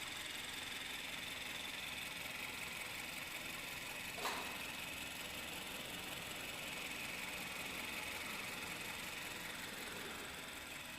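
Engine idling steadily, with a brief sharp click about four seconds in.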